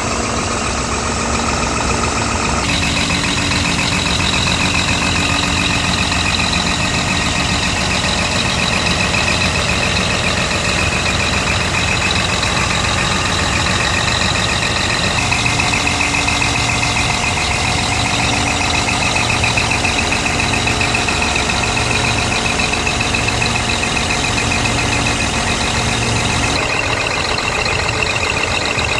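Scania R tractor unit's diesel engine running steadily, with a continuous high whine over the engine sound.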